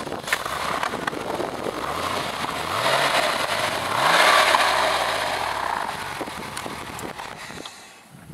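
Porsche 911 Carrera 2S's air-cooled flat-six engine revved twice, rising in pitch each time, then falling slowly back toward idle.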